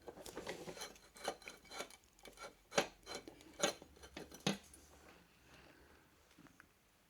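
Small metal clicks, clinks and scraping as a motorcycle stator is worked onto a tapered crankshaft end and lined up with its woodruff key, a string of sharp ticks that stops about five seconds in.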